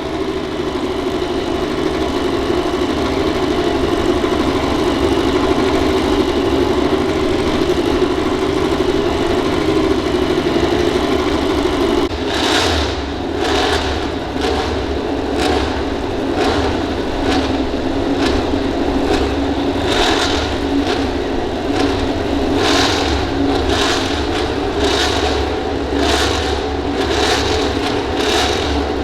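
MotoGP race motorcycle engines running loud and steady. About halfway through, the sound changes abruptly into a quick series of sharp bursts, one or two a second.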